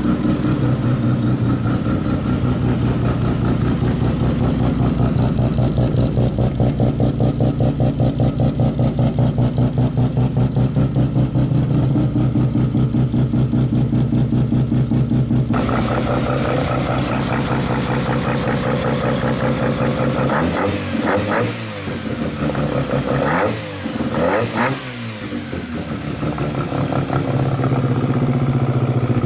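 Mazda 12A rotary engine idling with a rapid, choppy pulse, then revved in a few quick blips about two-thirds of the way through, the pitch rising and falling each time, before settling back to idle.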